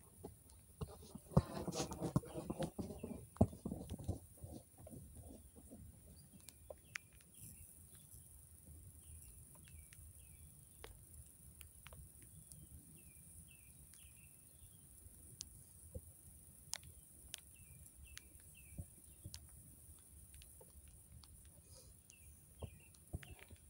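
Faint outdoor ambience with small birds chirping in short repeated notes, and scattered sharp ticks and taps. Near the start a brief pitched call rises and falls for a couple of seconds, the loudest sound in the stretch.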